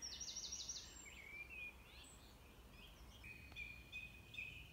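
Faint birdsong: a quick run of about five short falling notes at the start, then scattered chirps and some longer held whistles.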